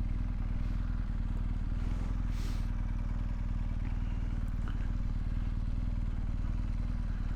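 Motorcycle engine idling steadily at a standstill, an even low note that neither rises nor falls.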